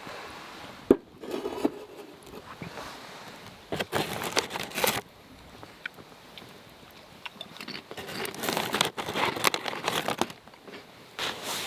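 Crinkling and rustling of something being handled, in several bursts separated by short pauses, with a sharp knock a little under a second in.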